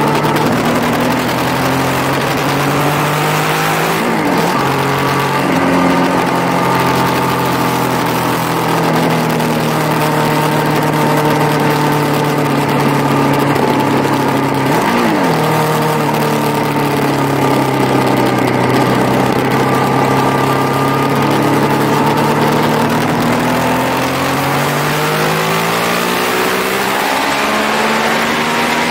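Motorcycle engine running hard through laps, heard onboard with wind rushing over the microphone. The engine note dips briefly about 4 and 15 seconds in, sags slowly through the middle, and climbs again near the end.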